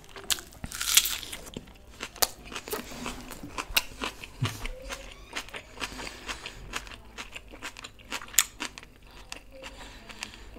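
Close-miked eating: a bite of pickled onion crunched, with the loudest crunch about a second in, then irregular wet chewing and mouth clicks.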